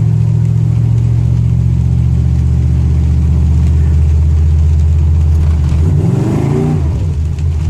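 Truck engine running steadily under way, then revving up briefly about six seconds in and dropping back.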